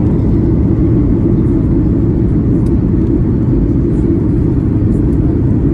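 Boeing 737-800 cabin noise: a steady low rumble of engines and airflow, even throughout.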